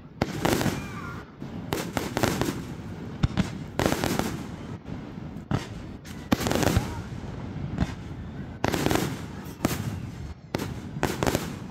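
Fireworks show: aerial fireworks bursting in a rapid, irregular series of sharp bangs, about one or two a second, with crackling noise trailing each burst.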